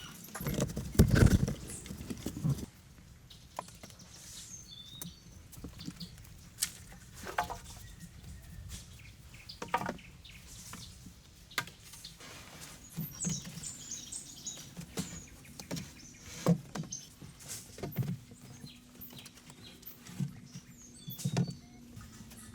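Irregular knocks and taps of hand work, with a louder rumbling clatter about a second in and a few faint high chirps in the middle.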